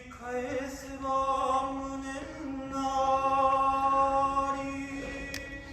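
A male voice chanting kagura song, holding one long drawn-out note that steps up slightly in pitch about two seconds in.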